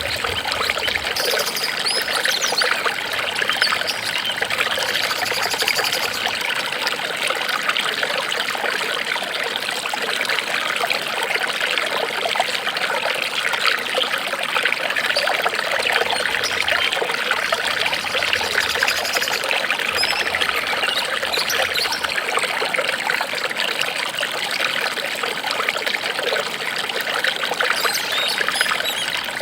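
Water trickling steadily and evenly.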